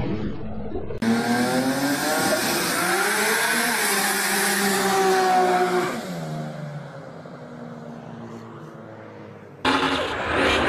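Car engine revving hard during a burnout over a high hiss, the revs rising and falling, then dropping away about six seconds in; a second loud engine cuts in abruptly near the end.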